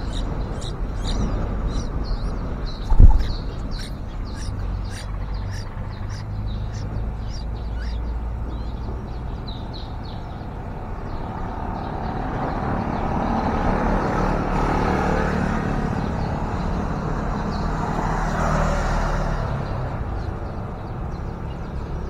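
Quick high-pitched chirps from yellow-vented bulbuls at the nest through the first several seconds, over a steady low traffic rumble. A single loud thump comes about three seconds in, and a vehicle passes in the second half, rising and then fading.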